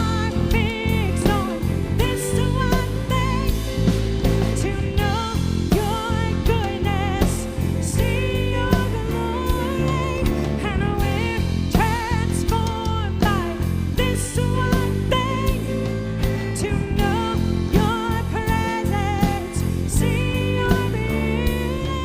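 Worship band music with a steady drum-kit beat, guitar and singing.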